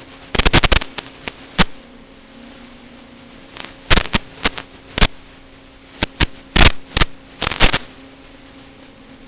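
A steady buzzing hum like a small motor, broken again and again by clusters of sharp clicks and crackles.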